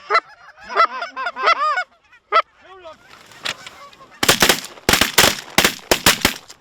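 Geese honking in quick repeated calls, then about four seconds in a rapid volley of shotgun blasts from several guns firing together, around ten shots in two seconds, the loudest sound here.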